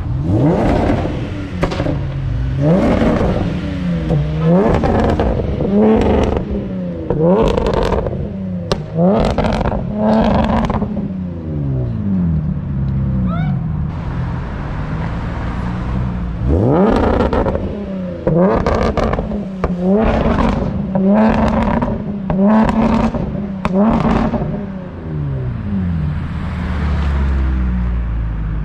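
Nissan 370Z's V6 being revved hard over and over on a two-step launch limiter, the engine note climbing and dropping every second or two with sharp pops among the revs. There is a lull of a few seconds near the middle before the revving resumes.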